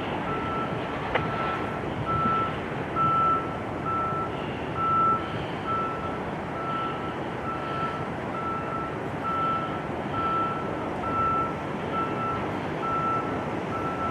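Vehicle backup alarm beeping at an even pace, about one and a half beeps a second, over a steady background rumble.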